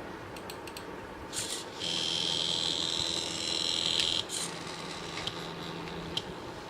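Small stepper motors of a DIY mini CNC plotter, with a steady high-pitched whine for about two and a half seconds as the carriage moves, cutting off suddenly. A few light clicks come before it.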